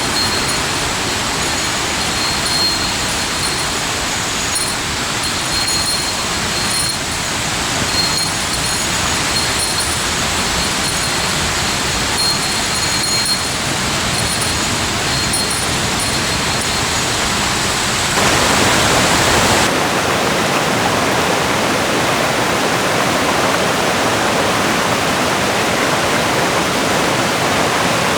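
Steady rush of water from a mountain stream and waterfall, growing louder and fuller about 18 seconds in.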